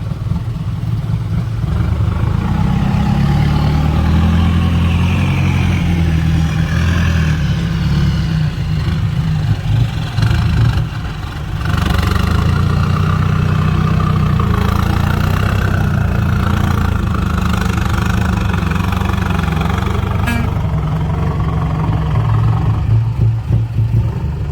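Loaded six-wheel diesel dump truck's engine pulling away under load, through a loud free-flowing exhaust. The engine note holds steady and strong, easing briefly about eleven seconds in before picking up again.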